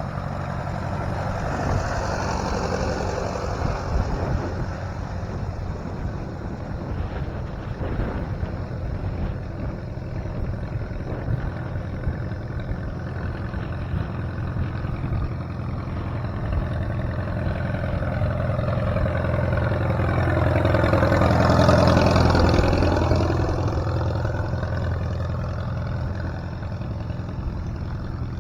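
Antique tractor engine running steadily, growing louder about three quarters of the way through as it comes close, then easing off.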